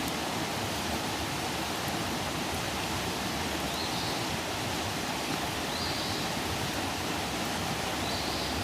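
Outdoor campfire burning with a steady rushing hiss. A short high chirp repeats about every two seconds.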